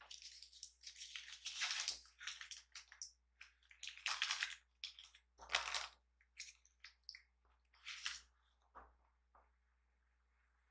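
Close-miked chewing of a bite of durian pastry: irregular mouth sounds that stop shortly before the end.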